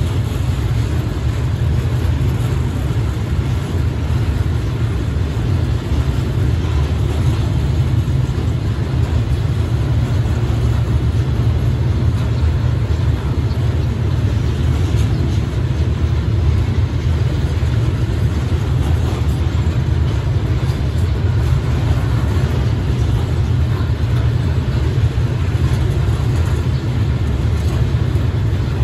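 Freight train of flatbed wagons rolling slowly past: a steady low rumble.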